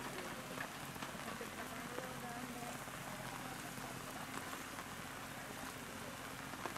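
Light rain pattering steadily, with many small drop ticks.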